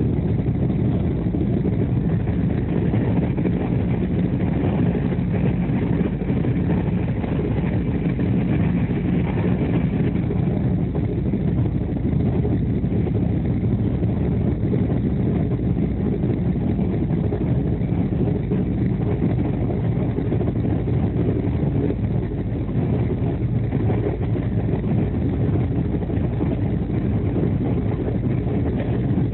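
Express train coach running at speed, heard from inside the coach: a steady low rumble of wheels and bogies on the rails.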